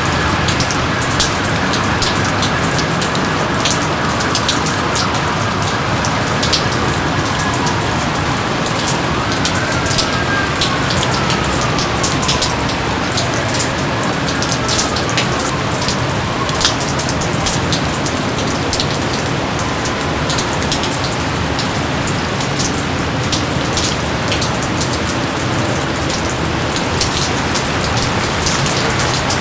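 Steady heavy jungle rain with many individual drops tapping close by. A few faint falling whistles come through in the first half.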